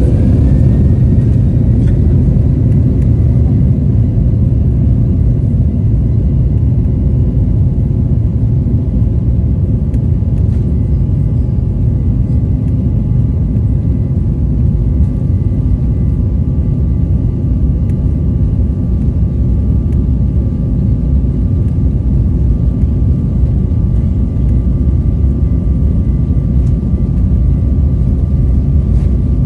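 Boeing 737 jet engines at takeoff power, heard from inside the passenger cabin: a loud, steady rumble with a thin engine whine that rises in pitch right at the start, as the plane speeds up for takeoff.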